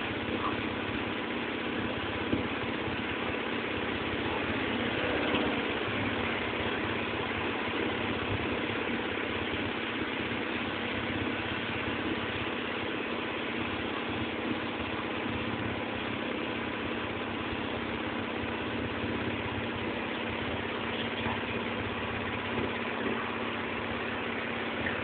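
Boat engine running steadily, an even drone that keeps up with no change.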